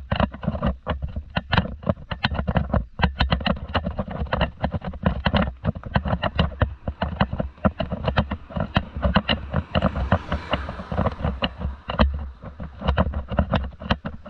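Microphone noise from a handheld camera on the move: a steady low rumble with rapid, irregular knocks and crackles, several a second, sounding distorted.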